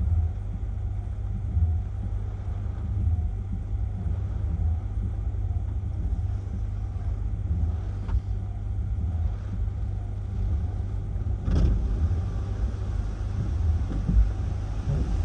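Hurricane-force wind buffeting the microphone, a heavy low rumble that swells and eases with the gusts. A short knock about eleven seconds in.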